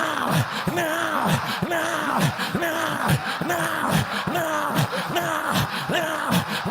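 A man's voice praying in tongues: short syllables chanted in a fast, steady rhythm of about two a second, each one falling in pitch.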